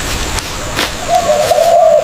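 A bird's long hooting call starts about a second in and is held for over a second, over a background of clicking, crackling noise.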